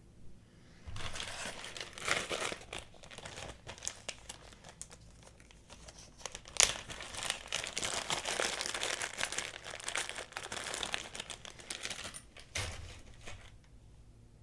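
Crinkling and crumpling of thin packaging, plastic or paper, being handled and pulled about for most of the stretch, with many small crackles and one sharper snap about halfway through.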